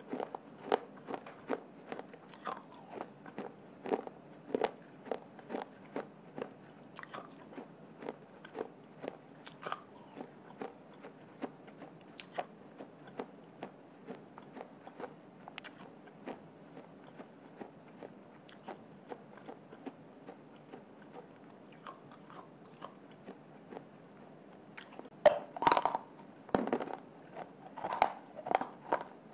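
Close crunching and chewing of hard baked clay: repeated sharp bites and grinding crunches, sparser in the middle and louder and more frequent near the end.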